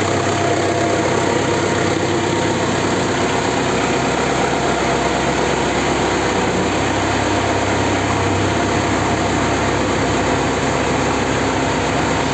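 Engine idling steadily on its first run after a repair.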